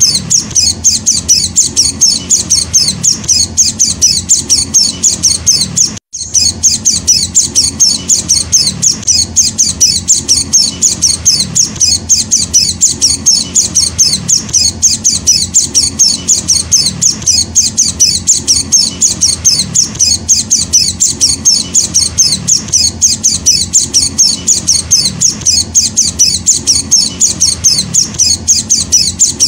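A white-eye (Zosterops) chick calling in a fast, insistent series of short, high chirps, about three a second, as a hand-fed young bird begs for food. The calls break off for a moment about six seconds in.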